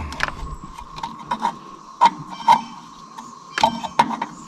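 Irregular sharp metallic clicks and taps of engine parts and tools being handled under a truck's hood, over a faint steady tone.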